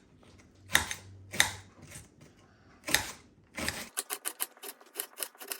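Knife chopping onion on a cutting board: a few separate sharp chops, then a faster run of quick, evenly spaced clicks over the last second and a half.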